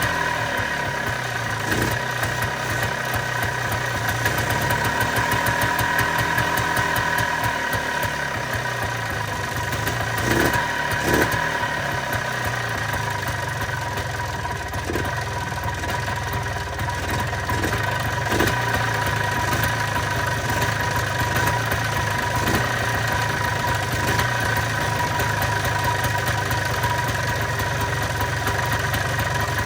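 1995 Polaris Trail Boss 250's two-stroke single-cylinder engine running steadily at idle, now firing on a freshly fitted spark plug after a crank-no-start. A few brief sharp pops come about ten, eleven and eighteen seconds in.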